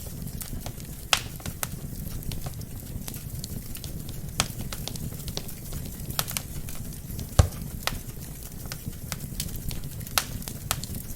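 Wood fire burning in a fireplace: a steady low sound of flames with scattered sharp crackles and pops from the burning logs, the loudest pop about seven seconds in.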